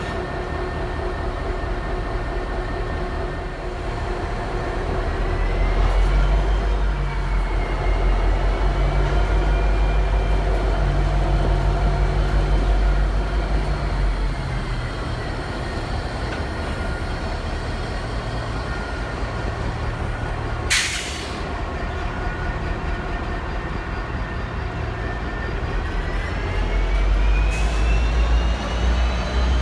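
Diesel-electric locomotives running at close range: a deep engine rumble that swells twice as they work harder, with a thin high whine that slides up and down above it. A brief sharp burst of noise about two-thirds of the way through.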